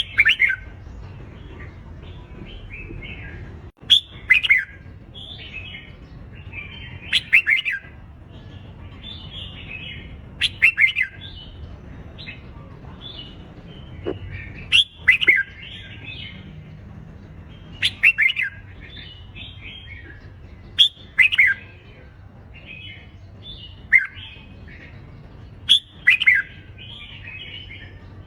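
Red-whiskered bulbuls singing competition song: loud, bright warbled phrases about every three to four seconds over a continuous chatter of softer chirps.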